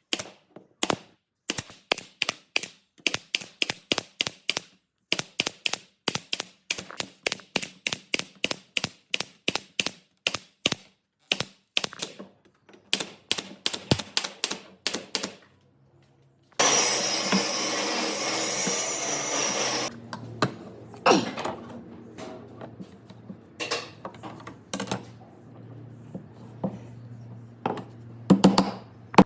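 Rapid sharp tapping on wood, about four to five taps a second, for about fifteen seconds. After a short pause a workshop power tool runs loudly for about three seconds, then a quieter steady hum continues under scraping, with a few knocks near the end.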